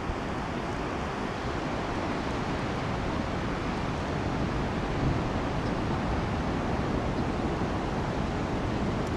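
Steady wind noise buffeting the microphone, a rumbling rush heaviest in the low end, with no distinct bird calls.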